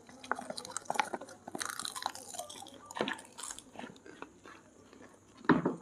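People crunching and chewing mouthfuls of masala popcorn: many small, irregular crisp crunches. A single louder burst comes near the end.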